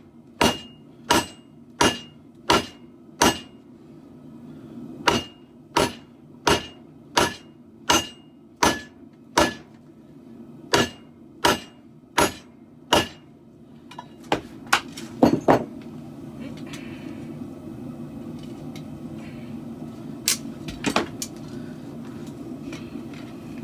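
Hand hammer striking hot steel on an anvil while forging a katana blade: regular ringing blows about one every 0.7 s in three runs, then a quick flurry of four blows. After that a steady low rushing sound takes over, broken by two sharp metallic clinks.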